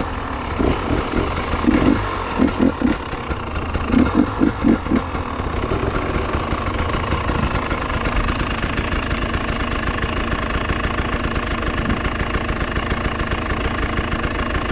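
Two-stroke enduro motorcycle engine running. It is uneven for the first five seconds or so, with several short clusters of bursts, then settles into a steady, even run.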